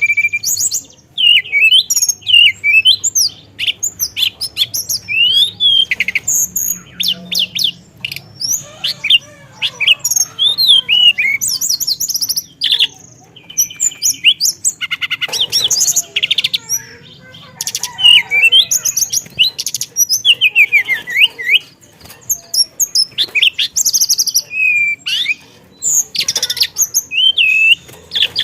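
Teledekan songbird singing continuously: a fast, varied stream of high chirps, slurred whistles and trills, its song filled with mimicked phrases.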